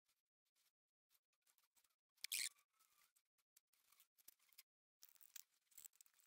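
Near silence with a few faint clicks and one short scrape about two and a half seconds in: a gloved hand handling the plastic pouring cup and stick while liquid silicone rubber is poured into a Lego-brick mould box.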